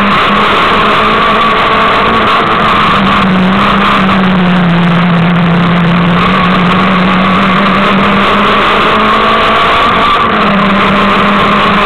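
Peugeot 306 S16's 2.0-litre 16-valve four-cylinder engine running hard at rally pace, heard from on board. The revs dip for a few seconds partway through, then climb again.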